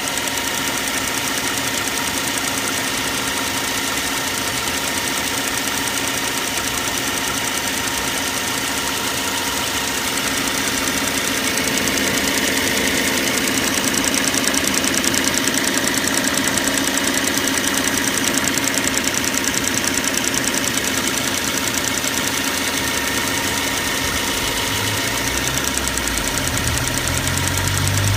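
BMW N43 four-cylinder petrol engine of a 2011 E91 3 Series Touring, running steadily at idle after a cold start. It gets a little louder about twelve seconds in. A low rumble joins near the end.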